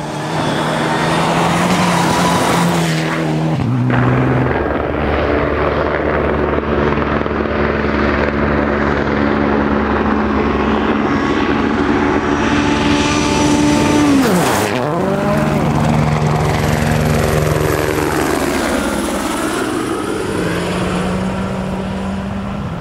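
World Rally Car engine at full throttle, stepping through gear changes, with turbo and transmission whine. About fourteen seconds in it passes close by and its pitch drops sharply. Near the end another engine is heard approaching.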